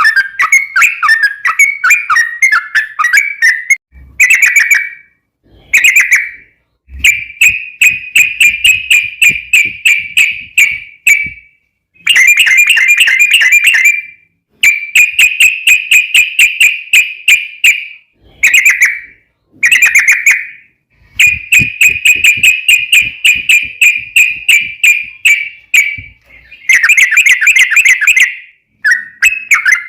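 Yellow-vented bulbul (trucukan) singing its long rolling song: fast runs of bright, rapidly repeated notes in phrases of one to several seconds, broken by short pauses.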